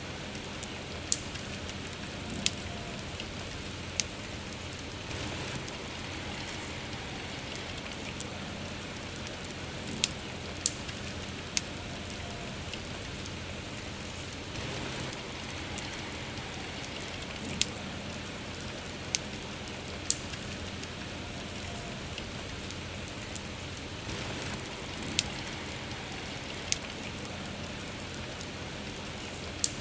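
Steady rain with a crackling wood campfire: an even patter and hiss, broken by sharp pops of burning wood at irregular intervals, about a dozen loud ones and many small ticks.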